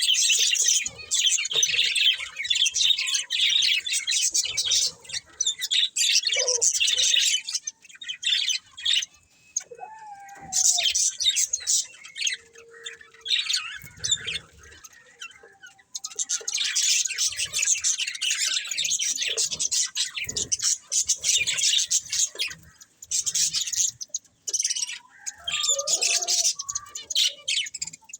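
Budgerigars chattering and warbling: long runs of fast, high chirps, broken by a few short pauses and the odd lower call.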